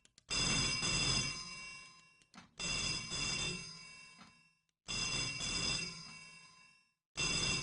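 Telephone bell ringing, four rings about two seconds apart, each one starting suddenly and fading away.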